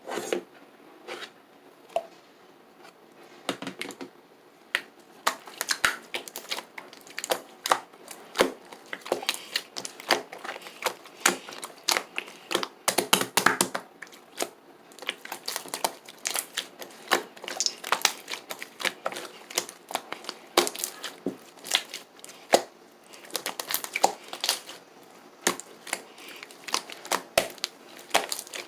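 Orange slime being squished and pressed by hand, giving a dense, irregular run of sharp clicks and crackling pops.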